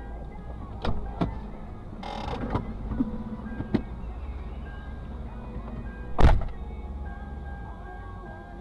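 A vehicle engine idling with a steady low rumble. Scattered clicks and knocks sound over it, then one loud thump about six seconds in.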